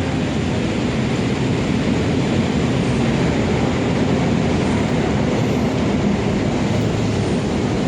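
Steady, loud rumbling noise of a vehicle in motion, with no clear rhythm or tones.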